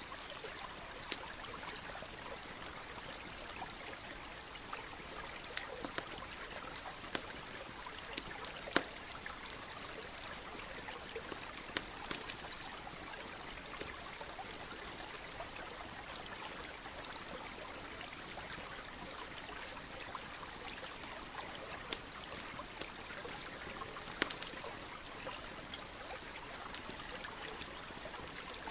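Campfire crackling, with sharp pops at irregular intervals, over the steady rush of a stream trickling nearby.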